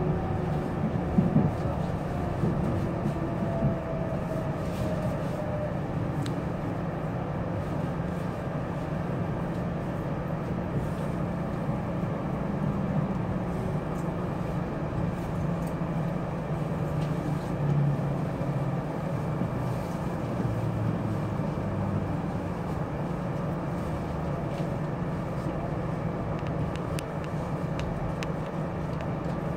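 Limited express electric train heard from inside the carriage as it slows into a station: a steady running rumble, with a whine that falls in pitch over the first few seconds.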